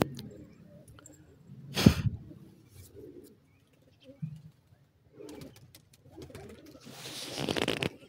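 Soft, low cooing bird calls in short phrases, with one loud brief noise about two seconds in and a hissing, rustling noise near the end.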